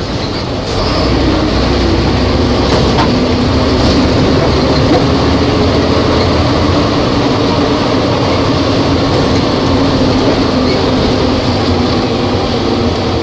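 Volvo B270F bus engine running steadily while the bus is under way, with a slight rise in pitch early on and then a held pitch.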